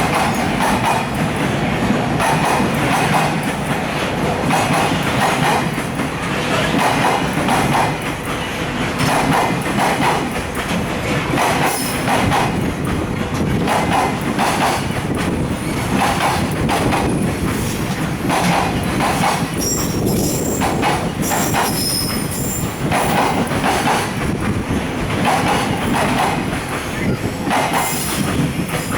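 Container freight train's wagons rolling past, with a regular clatter of wheels over rail joints about once a second. Brief high-pitched wheel squeal about 20 seconds in.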